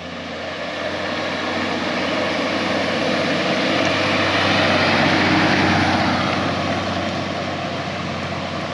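A vehicle driving, its engine and tyre noise swelling to a peak about five seconds in and then easing off, over a steady low hum.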